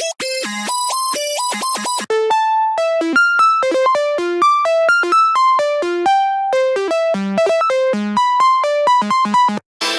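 Xfer Serum lead synth presets playing a quick melody of short pitched notes. The sound switches to another preset after a brief drop about two seconds in, and breaks off in a short gap near the end.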